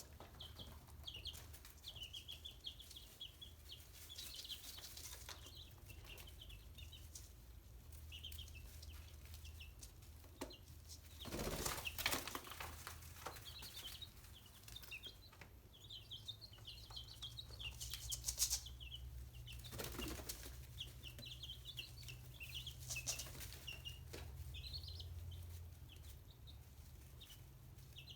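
Chicks peeping in many short, high chirps, with a few brief louder rustles among them, over a steady low hum.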